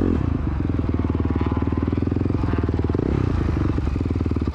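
Dirt bike engine running steadily at a constant speed, its rapid firing pulses even throughout.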